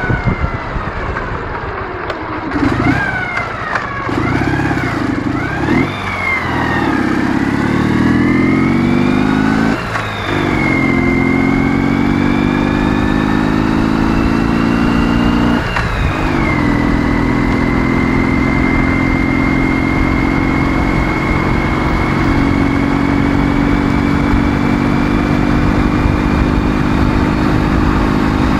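Ural motorcycle's 650 cc flat-twin engine accelerating hard through the gears: the engine note climbs, drops out briefly for a gear change about ten seconds in and again about six seconds later, then pulls steadily at speed with its pitch slowly rising.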